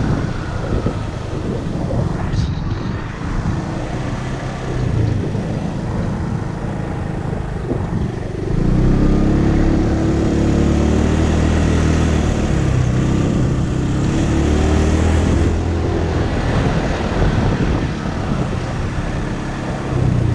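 Motorcycle engine running while riding, over a steady rush of wind and road noise. The engine is louder for several seconds from about eight seconds in, its pitch shifting, then eases back.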